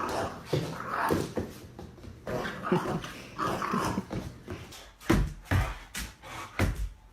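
A dog whining and yelping in short repeated calls, which turn louder and sharper over the last two seconds.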